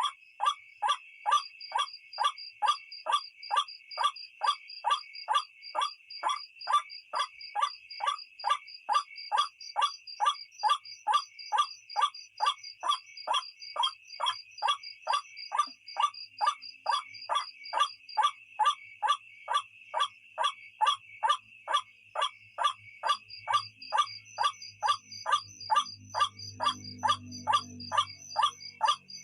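White-breasted waterhen (ruak-ruak) calling, a monotonous call repeated evenly a little over twice a second, over a steady high insect drone. This is the lure call used to draw waterhens in at night.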